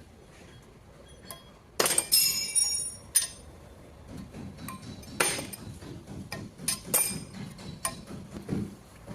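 Metal tools and engine parts clinking and knocking together during engine assembly: a few sharp, ringing clinks about two seconds in, another near three seconds, and more around five and seven seconds, with low handling noise between them.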